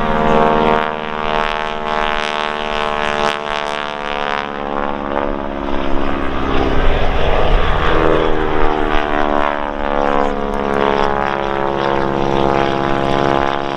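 Two Boeing Stearman biplanes' radial engines and propellers droning as they fly past, the pitch shifting as they pass each other about halfway through.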